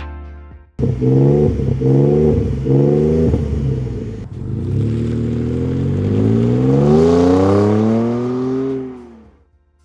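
Pickup truck engine revved through an MBRP 4-inch cat-back single side-exit exhaust: three quick blips about a second apart, then one longer rev that climbs and falls away.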